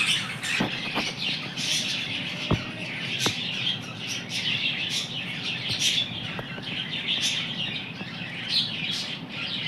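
Birds chirping continuously, many short overlapping chirps without a pause.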